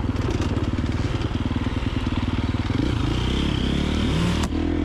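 KTM 350XC-F dirt bike's single-cylinder four-stroke engine running at low revs with a rapid even pulse, then revving, its pitch rising about three to four seconds in. A sharp knock near the end.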